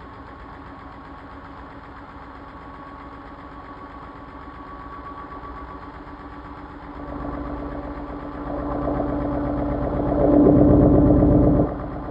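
Washing machine running with a steady motor hum. It grows louder in steps from a little past halfway, then drops off suddenly near the end.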